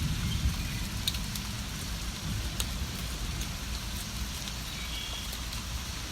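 Steady rain with scattered drop ticks, over a low rumble of distant thunder that eases off over the first few seconds. A few faint, short bird chirps come through the rain.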